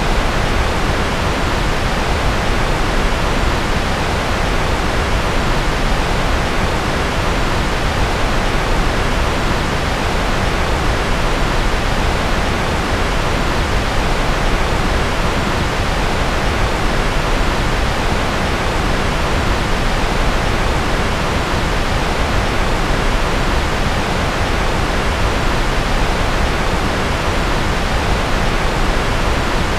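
Steady synthetic noise, even and unchanging throughout, with more weight in the lows than the highs, closer to pink noise than flat white noise.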